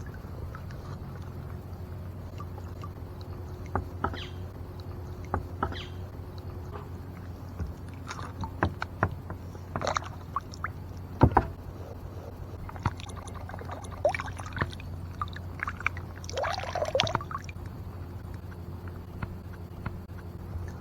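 Kayak paddle dipping into calm lake water: irregular splashes and drips every one to three seconds, the loudest about eleven seconds in and a longer gurgling splash around sixteen seconds. A steady low hum runs underneath.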